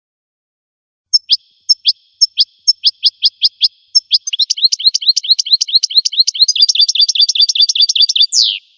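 A finch singing: a string of short, separate chirping notes, then a fast trill that ends in one longer falling note.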